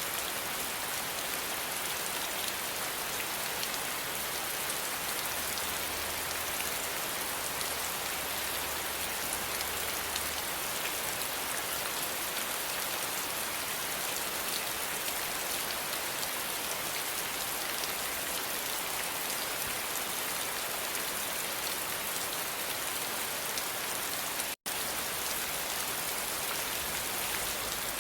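Steady rain: a dense, even hiss of falling drops. It cuts out for a split second near the end.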